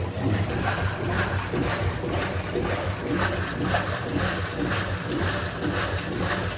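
Facilite 11 kg top-loading washing machine running a wash cycle with its cam newly replaced: a steady motor hum with water churning and no other mechanical noise.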